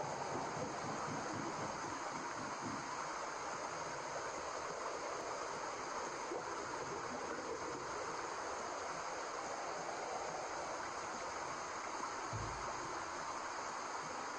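Steady white-noise hiss, an even rushing without rhythm, played as a baby sleep sound. A brief low thump about twelve seconds in.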